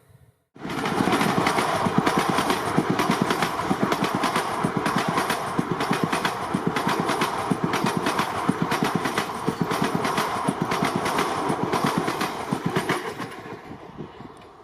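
Express train passing at speed, its coach wheels clattering rapidly over the rail joints. The sound starts abruptly about half a second in and dies away near the end as the train recedes.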